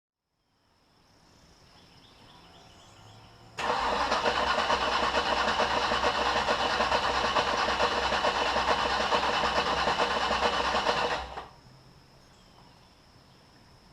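A 1972 Chevelle's V8 engine being started: loud engine sound comes in suddenly about three and a half seconds in, runs steadily for about eight seconds, and cuts off abruptly.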